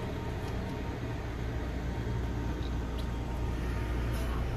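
Steady low hum and rumble of the Fujisan View Express train standing at the station platform.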